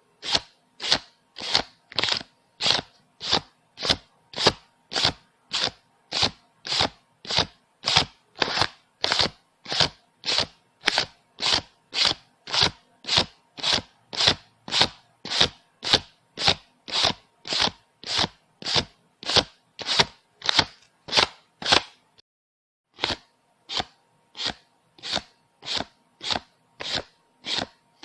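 Paper banknotes being counted by hand, each bill flicked off the stack with a crisp snap, about two a second. There is a pause of about a second roughly three-quarters of the way through.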